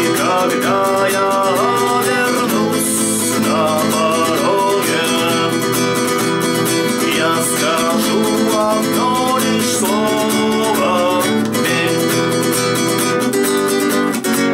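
Acoustic guitar strummed in a steady, busy strumming pattern, with a voice singing a melody over it.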